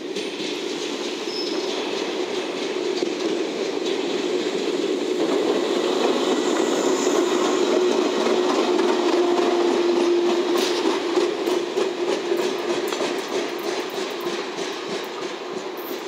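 Two-car JR West 115 series electric multiple unit passing close by. It grows to its loudest about halfway through and then fades, with the wheels clacking over rail joints in the second half.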